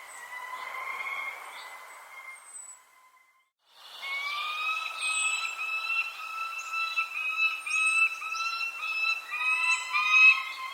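Small birds chirping with brief high calls over a steady whistling tone that later breaks into short repeated notes; the sound cuts out for a moment about three seconds in.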